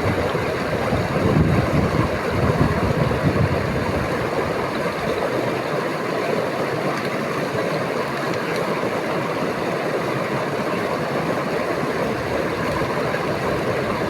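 A river running high and rough, its water rushing in a steady, loud noise.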